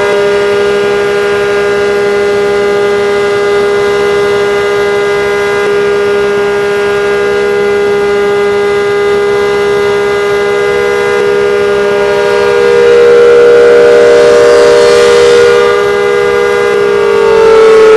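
ACA Hurricane civil defense siren sounding a steady, loud two-note tone. It swells louder about thirteen seconds in, and its pitch begins to fall near the end as it starts winding down.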